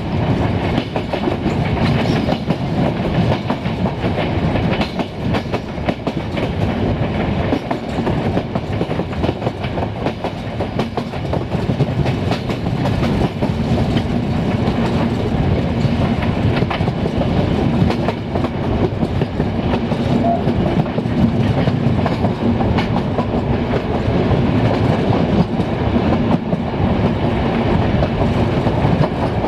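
Train running along the track, its wheels clattering steadily over the rail joints, with a faint steady hum partway through.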